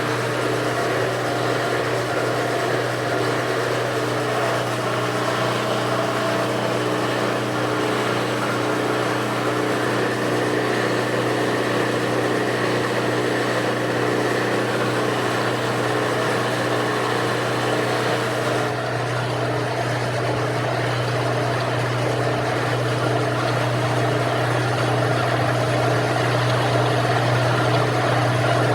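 A machine running steadily, with an unbroken low hum and a hiss over it.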